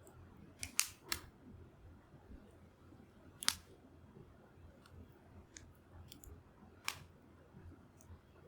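Wood campfire crackling: scattered sharp pops of burning wood, a quick cluster about a second in, the loudest about three and a half seconds in and another near seven seconds, over a low steady background.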